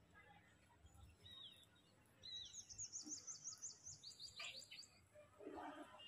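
Faint bird chirping: a rapid series of high, downward-slurred notes about six a second, starting about two seconds in, then a slightly lower run of chirps that stops about five seconds in.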